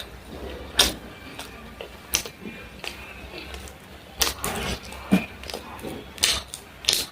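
Close-miked eating sounds: chewing with irregular sharp mouth smacks and clicks, about six over the stretch.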